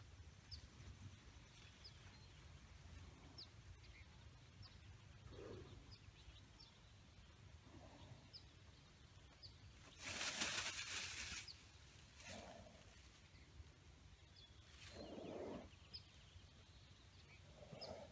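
Quiet outdoor ambience with a small bird chirping repeatedly, short high chirps every half second to a second. About ten seconds in there is a loud rushing burst lasting over a second, and a few short low animal-like sounds come in between.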